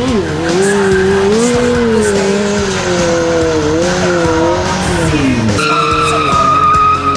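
Motorcycle engine revving, its pitch wavering up and down, then falling away about five and a half seconds in as a steady high-pitched tyre squeal takes over.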